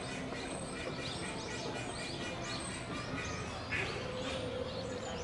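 Birds chirping and calling in short, repeated notes over a steady background of outdoor noise.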